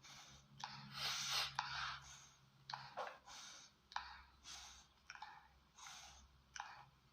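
A string of about a dozen short, irregular breathy puffs close to the microphone, over a faint steady low hum.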